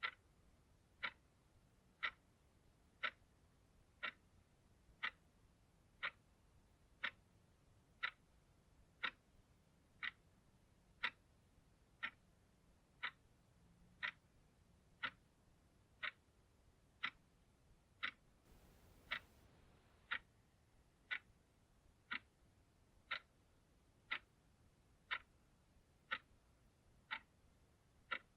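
Clock ticking steadily, one crisp tick each second, every tick alike.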